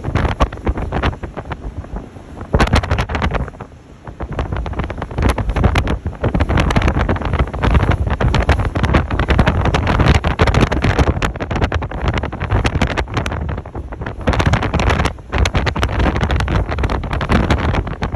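Hurricane-force wind gusting hard and buffeting the microphone: a loud, low rumble full of crackling, easing briefly about four seconds in and again near fifteen seconds.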